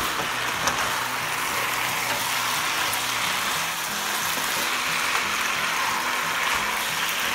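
Chicken and vegetables sizzling in a pan as they are stirred with a spatula, under background music holding low notes.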